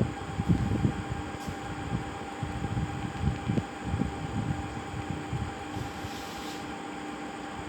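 A steady hum with two constant tones, and irregular low bumps and rumbles over it that are busiest in the first half.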